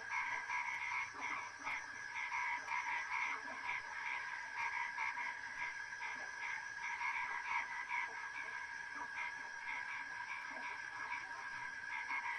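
A steady animal chorus: several continuous pitched calls sounding together, with a rapidly pulsing call layered over them.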